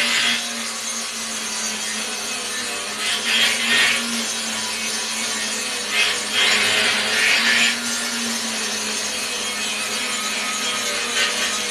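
Angle grinder running steadily on steel, its motor whine constant, with loud rasping swells every few seconds as the disc is pressed to the metal.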